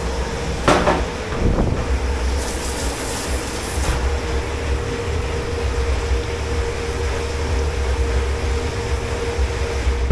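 Commercial kitchen machinery running with a steady low drone and a constant hum. Two short clatters of crockery or metal come about a second in.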